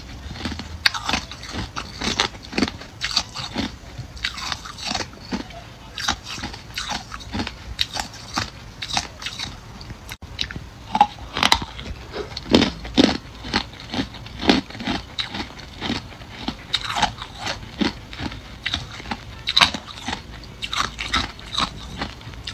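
Ice being bitten and chewed close to the microphone: a steady run of hard crunches, about two or three a second.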